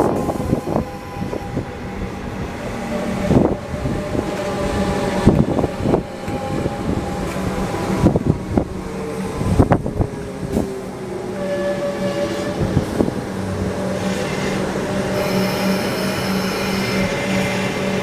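A train passing, its wheels knocking irregularly over rail joints and points, with steady tones running above the knocks. The knocks thin out after about ten seconds, leaving a steadier hum with a low tone.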